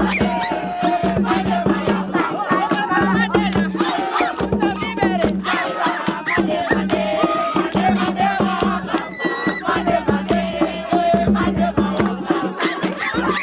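Loud music with dense, fast percussion strikes and a crowd of voices chanting and shouting together.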